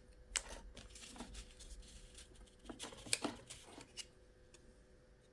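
Faint handling noises: a few light clicks and scrapes of small computer parts being picked up and moved by hand.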